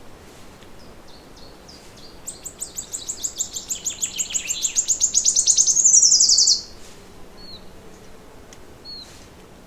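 A songbird singing a fast trill of repeated high notes that grows louder over about four seconds and ends abruptly in a quick falling run. A few short, faint chirps from other birds come before and after it.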